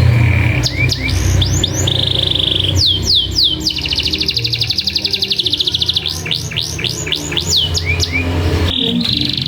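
Domestic canary singing: bursts of quick, high downward-sweeping notes alternate with rapid trills, including a long rolling trill through the middle, over a steady low hum.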